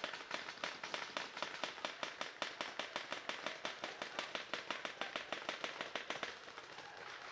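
Paintball markers firing in rapid strings of sharp pops, about eight shots a second, stopping about six seconds in.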